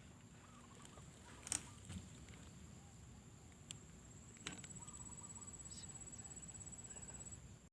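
Quiet forest ambience with a few faint clicks. About halfway in, a high, rapidly pulsing trill starts and holds steady until shortly before the end.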